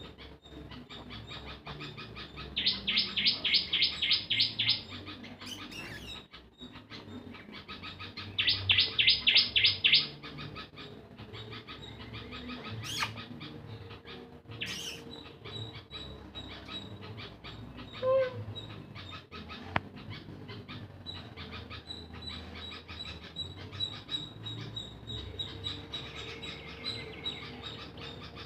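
Bird calls: two loud runs of rapid, evenly repeated high chirps, each about two seconds long, the second about six seconds after the first, with fainter chirps and ticks in between.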